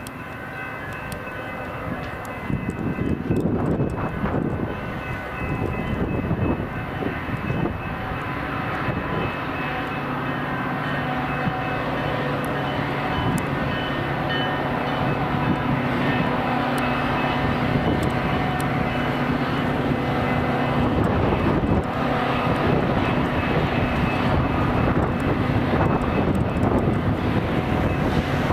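A train passing: a long, steady rumble that slowly grows louder, with a diesel engine's drone coming in about a third of the way through.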